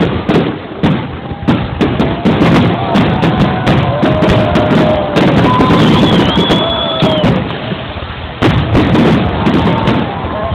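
Fireworks going off in a rapid barrage of sharp bangs and crackles, with people's voices calling out over them.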